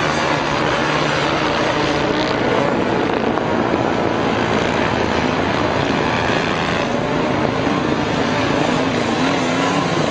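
Several dirt bike engines running hard together, a loud, steady drone whose pitch wavers up and down.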